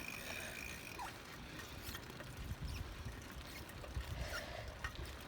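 Riding noise from a bicycle in motion: a steady low wind rumble on the microphone with tyre and road hiss and a few light clicks and rattles. A brief thin high tone sounds within the first second.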